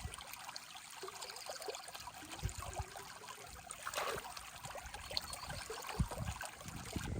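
Water trickling steadily, with scattered small clicks and a few soft low knocks.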